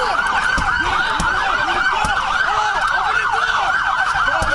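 Several police car sirens sounding at once in a fast yelp, their quick rising-and-falling sweeps overlapping into a dense, continuous wail.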